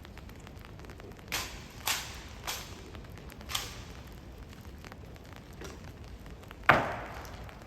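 Honor guards' drill strikes: four sharp clacks of boots and rifles on stone over about two seconds, then a much louder single stamp a few seconds later that rings on briefly.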